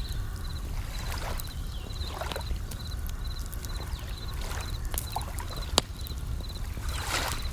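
Bell crickets (suzumushi) chirping in short high trills that repeat about twice a second, over a crackling campfire with scattered snaps and one sharp pop near 6 s. Waves wash in a few times over a low steady rumble.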